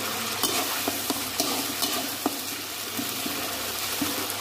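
Onion and ginger-garlic paste sizzling in oil in a kadai while a steel spatula stirs, scraping and clicking against the pan every so often.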